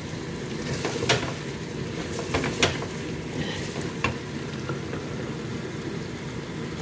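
Chicken and masala sizzling as they are stir-fried (the bhuna stage of a chicken karahi) in an aluminium pressure-cooker pot, with a spoon stirring through them. Several sharp knocks of the spoon against the pot, about a second in, twice around two and a half seconds (the loudest), and once at four seconds.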